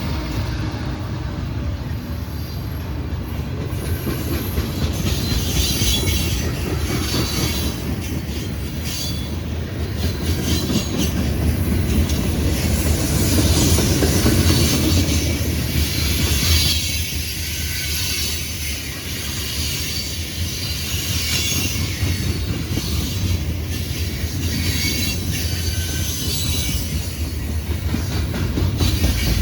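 A train's railroad cars rolling past in a continuous rumble, with wheels clacking over the rail joints and squealing now and then.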